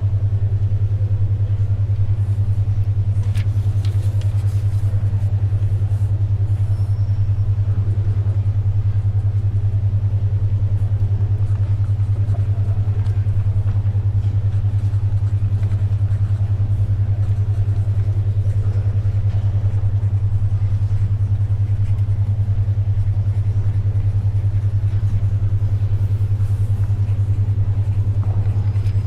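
A steady, loud low hum from an alpha brainwave beat track (the 10.2 Hz alpha setting), with a fine rapid pulsing. Under it is a faint library background hiss with occasional soft paper rustles and pencil scratches.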